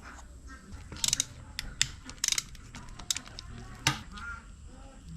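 Sharp metallic clicks and clinks of hand tools on engine parts, with a few short rattling clusters among them, during engine disassembly.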